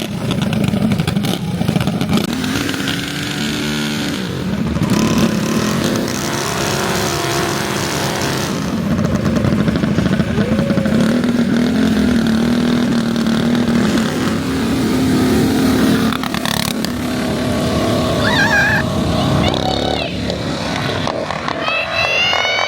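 Mini bike engines running and revving, their pitch rising and falling, with a steadier stretch in the middle. A wavering high-pitched sound comes in near the end.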